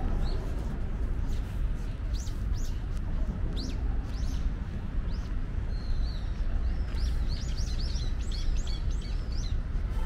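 Small birds chirping: scattered short, high, downward-sweeping calls that grow into a quick flurry of chirps near the end, over a steady low background rumble.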